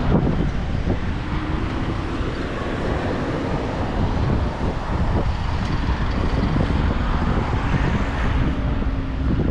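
Wind buffeting a GoPro's microphone on a moving bicycle, a steady low rumble, with the hum of road traffic passing.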